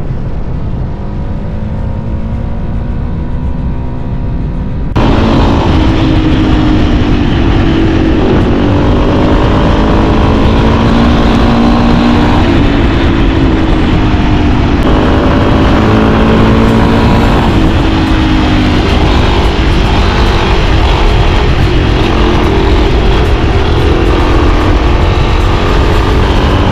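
Motorcycle engine running under way, its pitch rising and falling repeatedly as the bike accelerates and eases off, over heavy wind rumble on the microphone. It gets suddenly louder about five seconds in.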